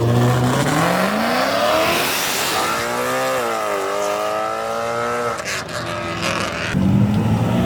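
Sports car engine accelerating hard, its pitch climbing for about two seconds, then holding and wavering as it pulls away. A few sharp cracks follow near the end, and a second engine comes in at a lower, steadier note in the last second.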